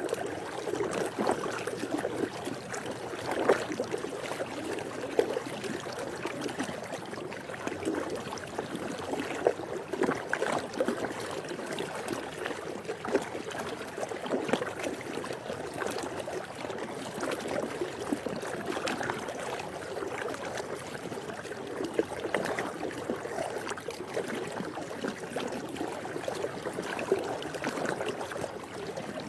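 Swimming-pool water lapping and sloshing continuously, with small irregular splashes standing out every second or two.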